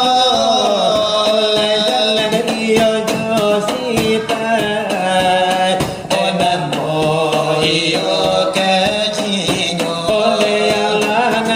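Selawat dulang: voices chanting a drawn-out, wavering devotional melody over quick, even strikes on brass trays (dulang).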